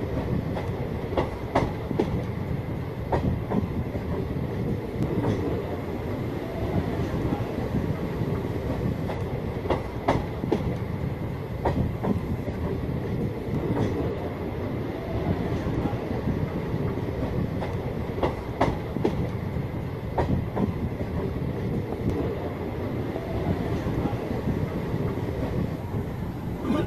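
Passenger train running on the move: a steady rumble of the coach with sharp wheel clacks over rail joints at irregular spacing.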